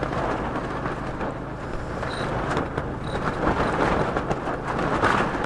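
Strong wind blowing against a fabric screen shelter and the microphone, a steady rushing noise with a low hum beneath and a few sharp knocks.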